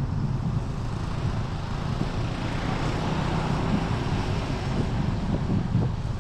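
Road traffic noise with low wind rumble on the microphone; a swell of tyre hiss builds and fades around the middle.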